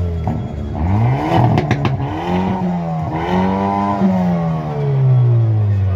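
Hyundai i30 N's turbocharged four-cylinder engine being revved while parked: the revs climb, drop, then climb and hold before falling again, with a few sharp cracks about a second and a half in.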